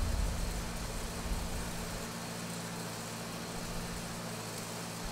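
Steady hiss with a low electrical hum from running welding-shop equipment, with a low rumble fading out in the first second.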